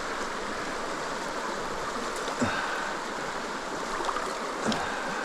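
Mountain creek water rushing steadily, with two short, sharper sounds about two and a half seconds in and near the end.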